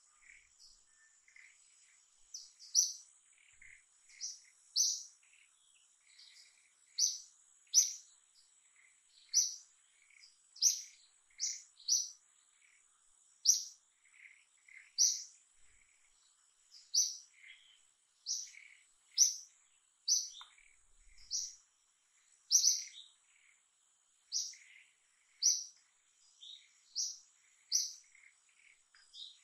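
A bird calling repeatedly with short, sharp, high chirps, about one a second, with softer lower notes between them, over a faint steady high-pitched whine.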